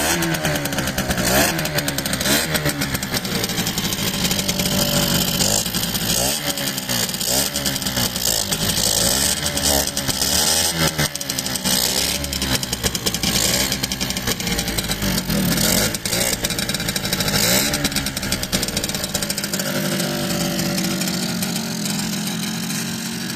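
Small Yamaha YF1 two-stroke motorcycle engine running, blipped up and down in revs again and again, then settling to a steadier, lower run near the end.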